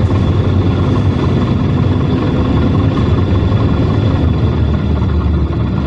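PAZ Citymax 9 city bus engine and road noise heard inside the passenger cabin, a steady low rumble as the bus drives.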